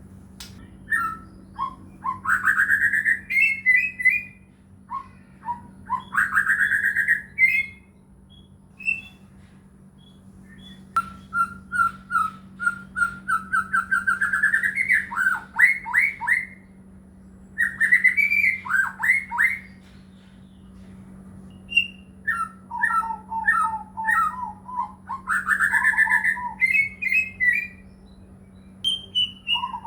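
White-rumped shama (murai batu) singing: loud phrases of rising slurred whistles and rapid trilled notes, each one to three seconds long, separated by short pauses.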